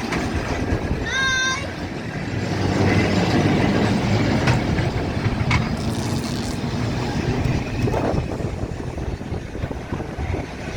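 Blackpool tram running along the street track, a steady rumble, with a short high ringing sound about a second in.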